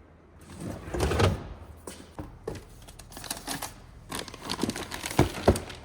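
Light clicks and knocks of parts being handled by hand, with a rustle about a second in and two sharper knocks near the end.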